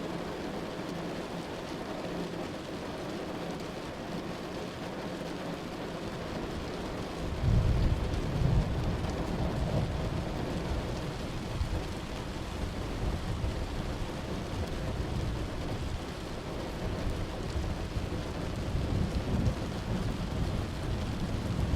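Steady rain with a thunderclap that comes in suddenly about a third of the way through, its deep rumble rolling on for several seconds and swelling again near the end.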